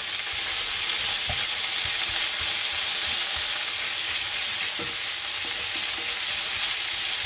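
Chicken and onion sizzling steadily in hot oil in a cast iron skillet, stirred with a wooden spatula that knocks softly against the pan a few times.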